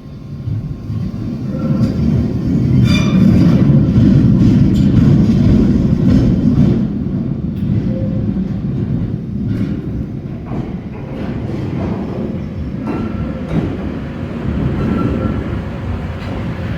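A Bakerloo line 1972 Tube Stock train running, a low rumble that builds over the first few seconds, then settles into steady running with wheel clacks and clicks.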